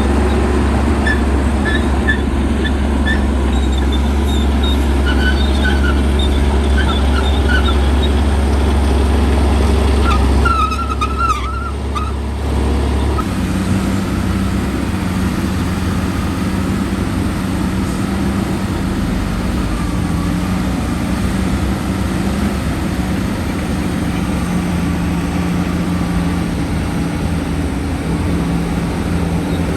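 Heavy diesel earth-moving machinery running loud and steady, with short high squeaks through the first half. The engine note changes about thirteen seconds in and then holds steady.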